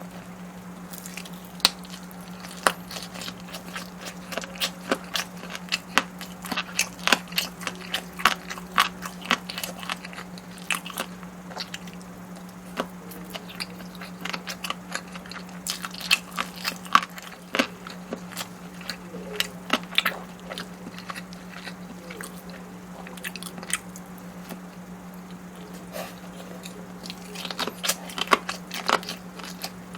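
Close-miked eating: biting and chewing food, with many irregular sharp crackly clicks of the mouth and food, over a steady low electrical hum.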